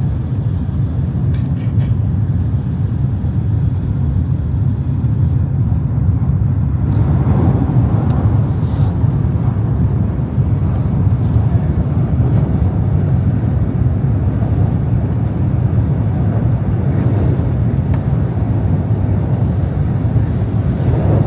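Shinkansen bullet train running, a steady low rumble with a rushing noise that grows louder about seven seconds in.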